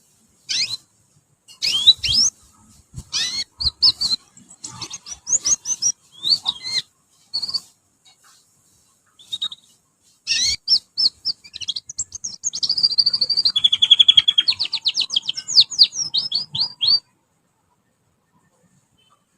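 Canary singing: short bursts of high, sweeping chirps, then a long fast trill of repeated notes that stops abruptly a few seconds before the end.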